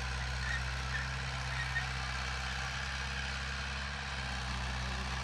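Heavy diesel engine of earth-moving machinery running at a steady, even speed, with no revving.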